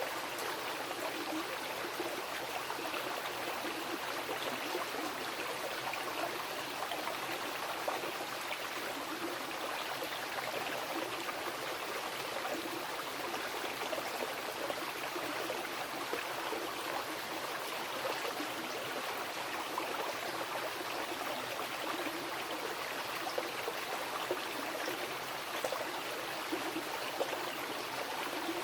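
Mountain river flowing over rocks: a steady rush of water with fine splashing and gurgling detail, unchanging in level.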